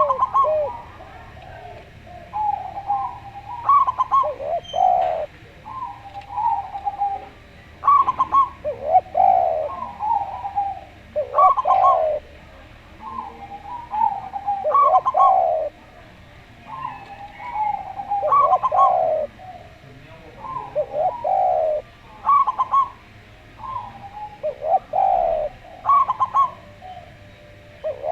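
Zebra dove and spotted dove cooing in turn, a phrase every three to four seconds: a run of short, higher coos followed by deeper, drawn-out coos.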